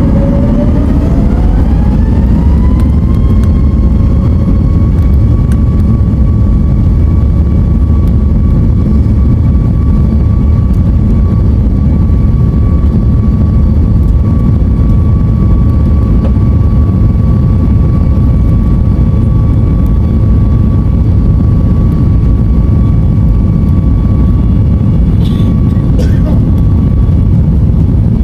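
Boeing 737-8200's CFM LEAP-1B jet engines spooling up, heard from inside the cabin: a whine rises over the first few seconds and then holds steady over a loud, deep rumble, typical of engines running up to takeoff thrust.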